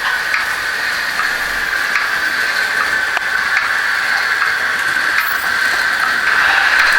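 Märklin HO model train running on the layout: a steady hissing running sound with a few faint clicks.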